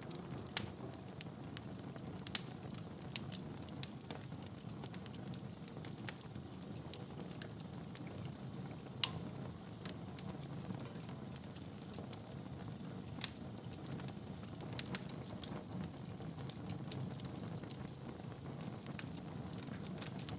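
Wood fire burning in a fireplace: a steady low rustle of flames with sharp crackles and pops at irregular moments, a few louder snaps among them.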